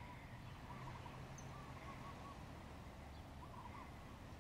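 Faint outdoor bird calls: short runs of wavy, repeated notes, heard several times, over a low steady background rumble.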